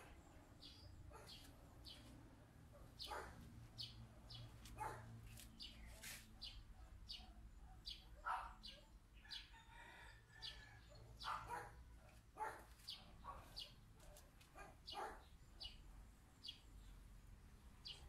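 Faint bird calls: short chirps scattered irregularly, with one longer call about ten seconds in.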